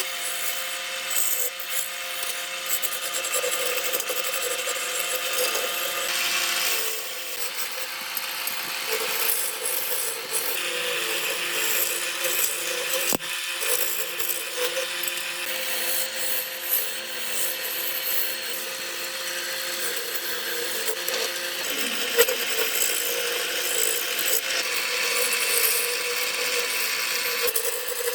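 Woodworking tools cutting and shaping wood: a steady motor whine under a rasping cut that swells and eases every few seconds, with a sharp knock about 22 seconds in.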